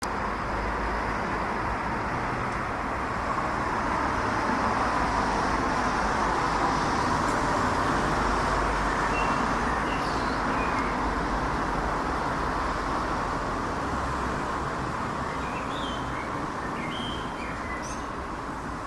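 Jet noise from a Boeing 737-800's CFM56-7B engines as the airliner flies over: a steady rushing rumble that swells a little about five seconds in and then slowly fades. Small birds chirp now and then in the second half.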